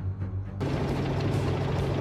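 Background music that gives way about half a second in to the steady, louder running noise of a helicopter's rotor and engine.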